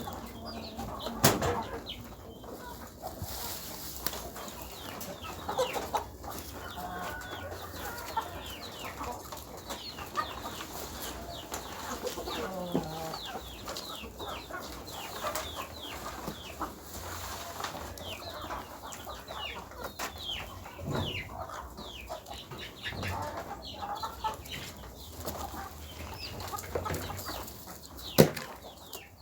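Chickens clucking and calling, with many short high calls throughout and a few sharp knocks, the loudest near the end.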